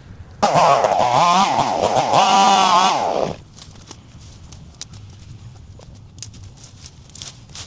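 A loud animal call lasting about three seconds, its pitch wavering up and down, starting and stopping abruptly.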